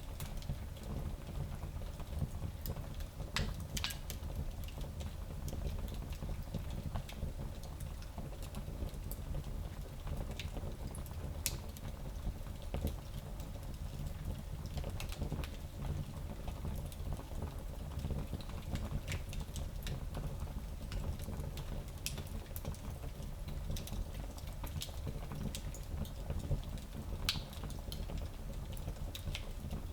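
Fire burning in a small fireplace: a steady low rumble of the flames with scattered sharp crackles and pops, a few of them louder.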